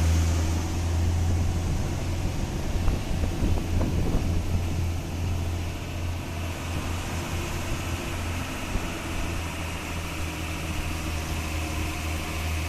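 Truck engine running steadily with a low hum, with a couple of light knocks about three to four seconds in.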